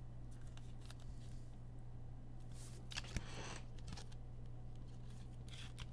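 Trading cards being handled and slid past one another by hand: faint scrapes and ticks, with a longer rustling slide about three seconds in, over a steady low hum.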